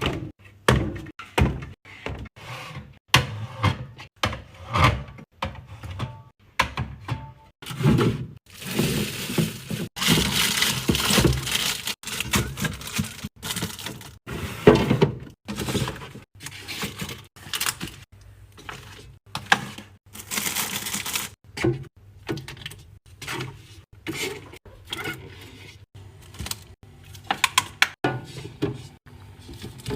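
Restocking noises: a quick run of sharp clacks and knocks as hard containers are handled and set down, with longer spells of rustling or crinkling packaging about eight seconds in and again near twenty seconds.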